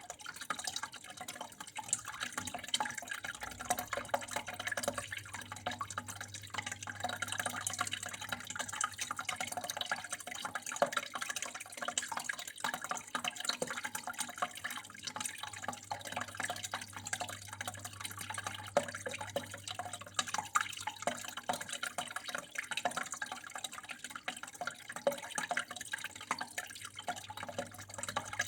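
Water flowing and trickling steadily, with a dense patter of small splashes and drips, over a faint low steady hum.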